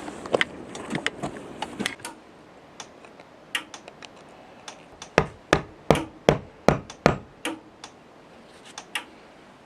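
A series of sharp knocks or taps: scattered light ones at first, then a run of about seven strong, evenly spaced knocks, a little over two a second, starting about five seconds in, with a few lighter taps near the end.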